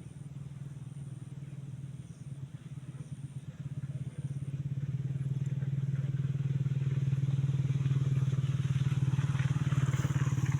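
A small engine running with a fast, even pulse, getting louder from about four seconds in.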